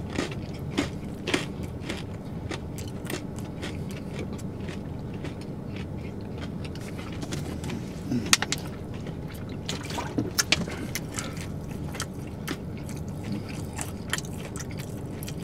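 People chewing a spicy fried chicken sandwich with their mouths open, wet smacking and lip clicks scattered throughout over a steady low hum; the noisy chewing is likened to a cow or a pig at its trough.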